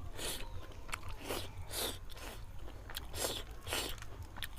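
Close-miked chewing and wet mouth smacks of a person eating fish curry, a string of short smacks about every half second.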